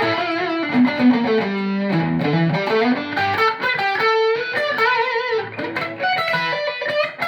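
ESP E-II Horizon electric guitar with EMG pickups, played on the bridge pickup through a drive preset with a plexi-style crunch: a single-note lead phrase of held notes, a descending run partway through, and notes shaken with vibrato.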